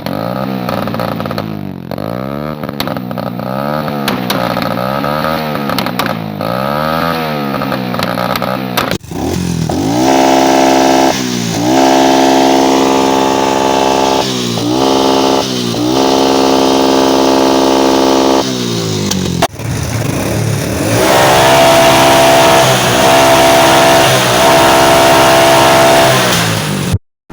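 Motorcycle engines with cut, muffler-less exhausts being revved hard. First comes a string of quick throttle blips that rise and fall about every second and a half. Then the engines are held at high revs, with brief dips in pitch, in sections that change abruptly.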